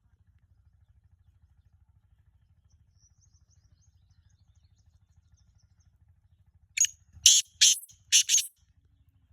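A francolin (teetar) calling: four loud, harsh notes in quick succession over about a second and a half, near the end. Faint quick high chirps come a few seconds earlier.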